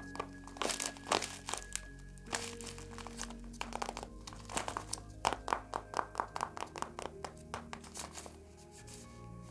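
Paper crinkling and rustling in quick, irregular crackles as a handmade paper blind bag and its paper contents are handled and opened, over steady background music.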